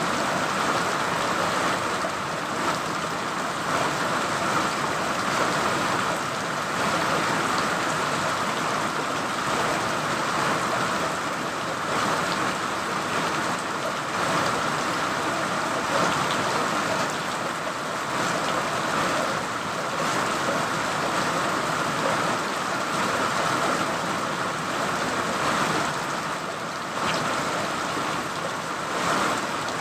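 Steady rain falling: a dense, even hiss with many small drop impacts through it.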